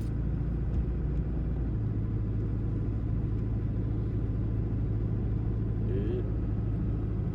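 Steady low rumble of a heavy truck's engine and tyres, heard from inside the cab while driving. A steady low hum sets in about two seconds in.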